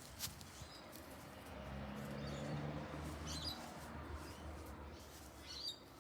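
Young chickens giving a few short, high chirps, twice in the second half, over a faint low hum.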